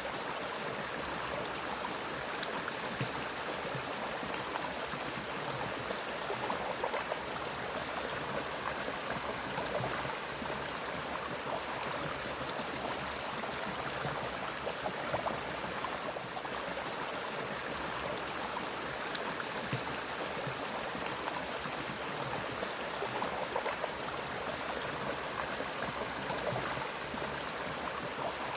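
Mountain stream flowing steadily through forest, with a constant rushing and gurgling of water. A steady high-pitched whine sits over it.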